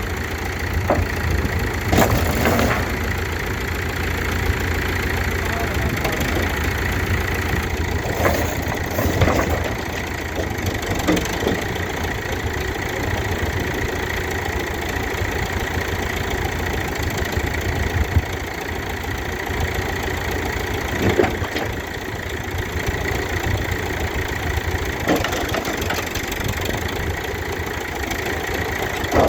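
Backhoe's diesel engine running steadily, with intermittent loud crunches and cracks of a camper's body being torn apart by the bucket, several of them scattered through.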